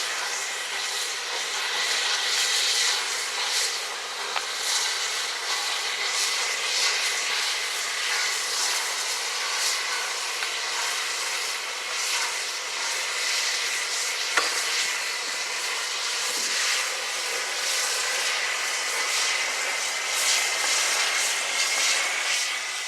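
Steady hiss of escaping steam from LNER A1 steam locomotive 60163 Tornado, with a faint high tone held underneath. A single sharp click comes about fourteen seconds in.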